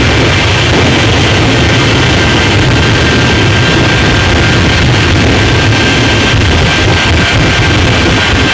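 Jet engine of a jet-powered truck running, a loud steady noise with a thin high whine.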